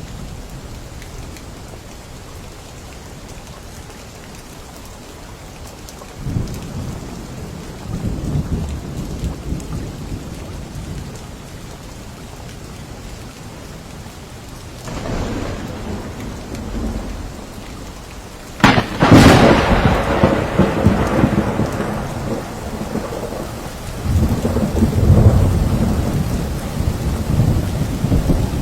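Steady rain falling through a thunderstorm, with several low rolls of thunder. About two-thirds of the way through, a sharp close thunderclap, the loudest sound, cracks and then rumbles away, and another roll of thunder follows near the end.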